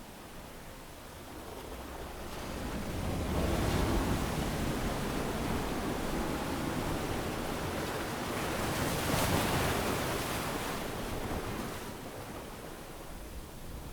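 Ocean surf on a beach: waves break and wash in a steady hiss. It swells louder about three or four seconds in, crests again around nine seconds, then ebbs near the end.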